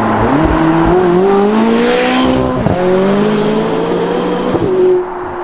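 McLaren 570GT's twin-turbo V8 accelerating hard, its note rising steadily in pitch. It shifts up about two and a half seconds in, climbs again, and eases off near the end.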